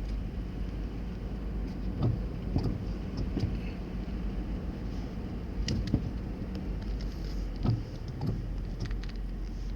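A vehicle driving slowly through street floodwater, heard from inside: a steady low rumble with scattered short knocks.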